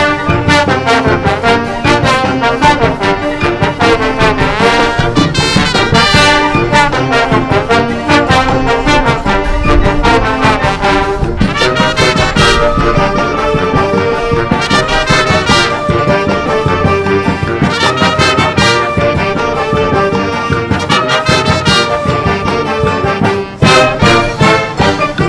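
Wind band of brass and woodwinds with percussion playing a forró arrangement, with trombones and trumpets prominent over a steady beat. About halfway through, long held notes come in over the rhythm, and there is a brief drop in loudness near the end.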